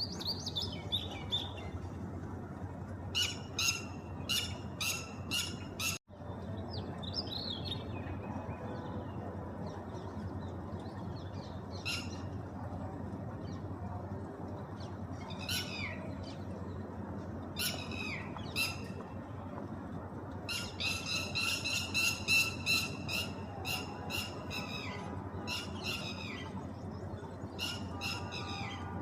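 A bird calling with harsh squawks and sharp notes, some in quick runs of several notes and a few single falling calls, over a steady background hiss. The sound drops out for a moment about six seconds in.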